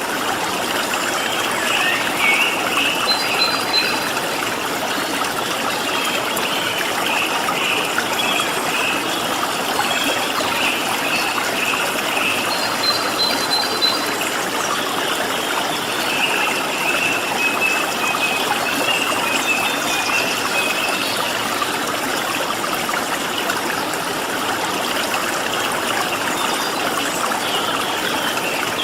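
Steadily flowing stream water, with small birds chirping and twittering over it and two short, high whistled notes, a few seconds in and again about halfway.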